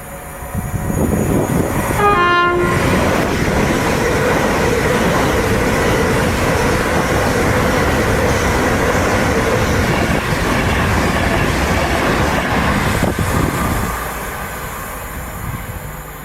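A train passing through the station at speed, sounding a short horn blast about two seconds in. The rush of the train builds over the first second, holds steady for about twelve seconds, then fades away near the end.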